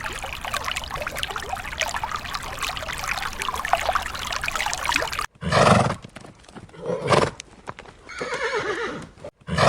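A dense, rapid patter of clicks and crackles for about five seconds, then, after a sudden cut, a horse neighing in four separate calls roughly a second apart.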